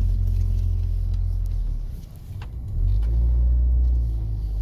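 Low rumble of a car driving, heard from inside the cabin. It eases off about two seconds in, then grows louder again.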